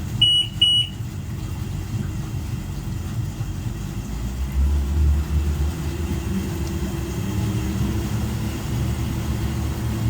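Twin Mercury outboard engines running, revved lightly up to about 1800 RPM: a steady low rumble that swells for a couple of seconds midway. Two short electronic beeps sound right at the start.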